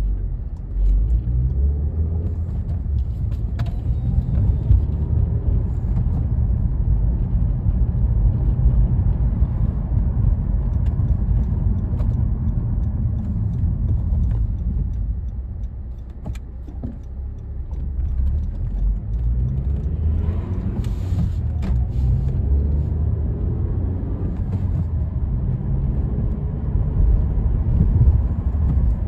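2014 Honda Accord Sport's 2.4-litre four-cylinder engine and road noise heard from inside the cabin while driving with the six-speed manual. The low rumble eases off about halfway through and then builds again.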